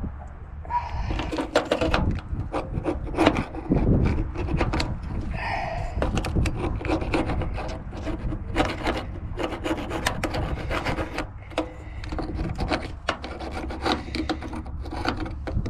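Rapid, continuous scraping and rasping of a hand tool against metal, starting about a second in, as the engine's thermostat mounting surface is cleaned of old gasket material.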